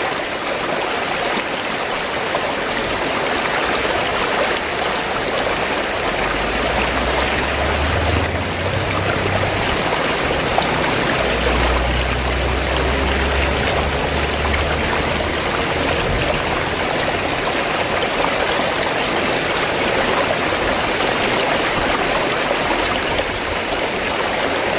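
Fast-flowing stream water rushing and gurgling steadily, with a low rumble underneath for several seconds in the middle.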